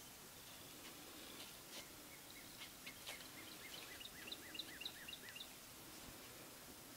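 Faint bird song: a quick, regular run of short, high, falling chirps, about four a second, starting a little over two seconds in and lasting about three seconds, with a few light clicks before it.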